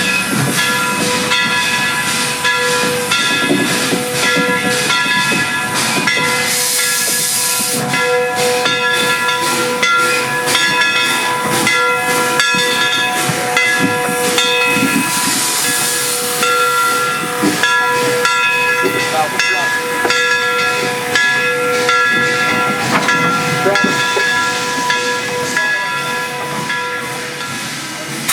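Central Railroad of New Jersey 0-6-0 steam locomotive 113 standing with steam hissing steadily, over a set of steady ringing tones and irregular knocks. The hiss gushes louder twice, about 7 and 15 seconds in.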